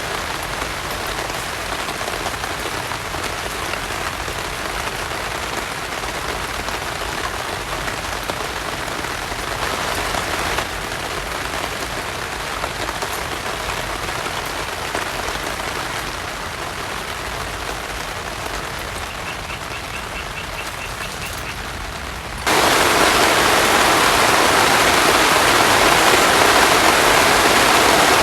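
Heavy rain falling steadily. About 22 seconds in it switches abruptly to a much louder, fuller rush of water.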